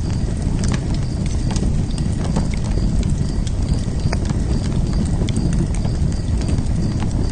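Wood fire crackling: a steady low rush of flames with irregular sharp pops and snaps.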